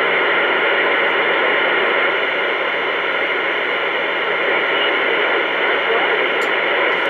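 CB radio receiver putting out a steady, loud hiss of static with no voice on the channel, sounding thin and narrow like a radio speaker.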